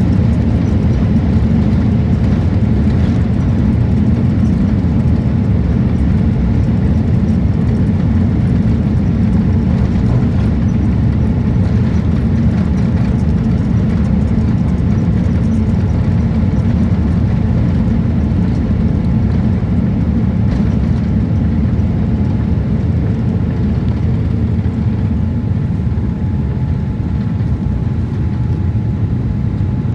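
Steady low roar inside a jet airliner's cabin, the engines and rushing air at an even level, with a faint steady whine coming in near the end.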